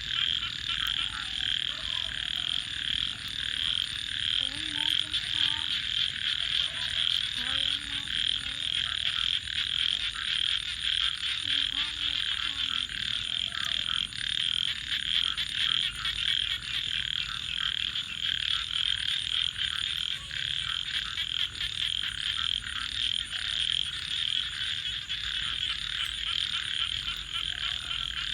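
A dense, steady chorus of many frogs calling at once, continuous and even, with faint crackles of a wood fire.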